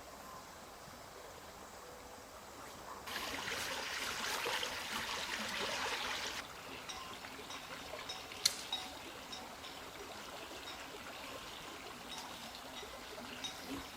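Water running in a trickling stream for about three seconds, starting and stopping abruptly, followed by a single sharp click and a few light ticks.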